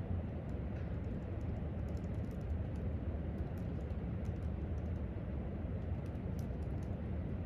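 Light, scattered clicks of typing on a laptop keyboard, in short runs with pauses, over a steady low room rumble.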